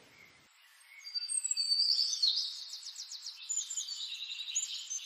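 Small birds chirping and twittering, several overlapping high calls with quick trills, starting about a second in.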